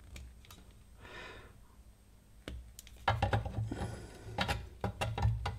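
A breath through the nose, then a run of close-up small clicks and rustling handling noise as a PC fan's lead is split apart by hand.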